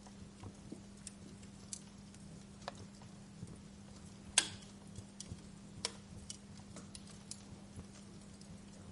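Fireplace fire crackling: irregular sharp pops and snaps, one much louder a little past four seconds in, over a faint steady low hum.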